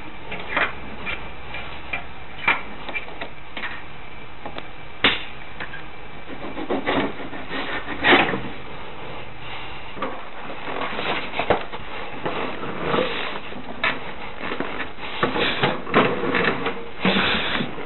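Scattered sharp clicks and knocks with short rustles of hand work on the scooter, over a steady hiss, getting busier in the second half.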